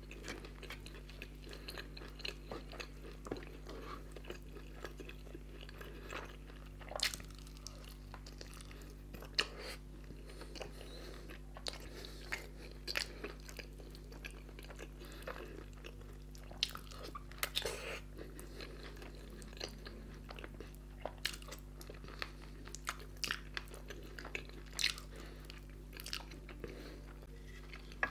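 Close-up chewing and mouth sounds of a person eating naan dipped in thick curry, with many short, irregular clicks and smacks, over a faint steady low hum.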